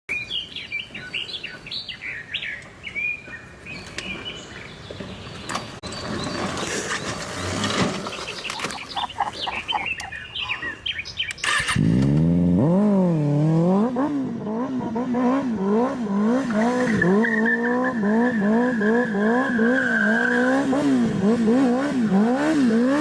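Motorcycle engine, apparently the Kawasaki ZX-10R's, revved over and over in quick throttle blips from about halfway in, its pitch rising and falling about twice a second. Before it come bird chirps and a mix of noise.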